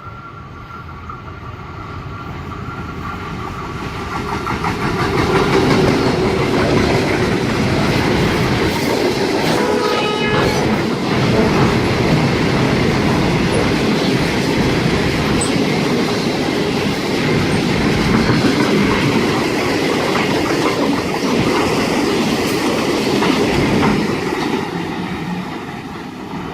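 A freight train hauling cement wagons, led by an 81 class diesel-electric locomotive, passes close by; its noise builds over the first six seconds as the locomotive arrives, then the wagons keep up a loud, steady rumble and clickety-clack of wheels over the rail joints.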